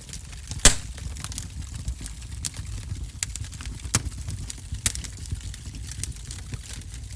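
Wood fire in a fireplace crackling, with sharp irregular pops over a low, steady rumble of the flames. The loudest pop comes less than a second in.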